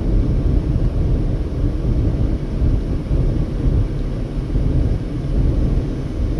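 Car travelling at highway speed: a steady low rumble of tyre and wind noise.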